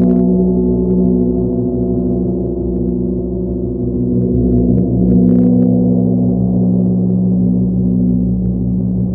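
Sustained, ringing drone of a sound-healing instrument: many steady overtones layered low, with a brief brighter shimmer about five seconds in.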